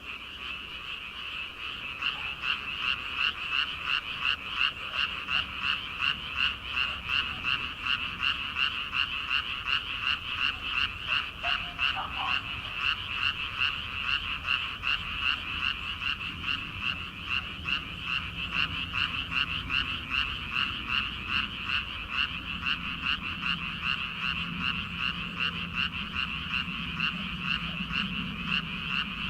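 A chorus of many paddy frogs croaking together, a dense, high-pitched calling that pulses in a fast, even rhythm. The chorus swells louder about two seconds in.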